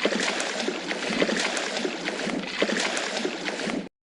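Fish splashing in water: irregular sloshing splashes that cut off suddenly near the end.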